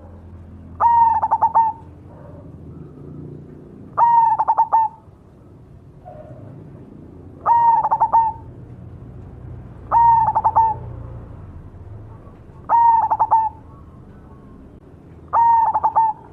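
A cemani (black-plumaged) zebra dove, or perkutut, cooing its song. There are six phrases, each under a second long and made of quick repeated notes, coming every two to three seconds.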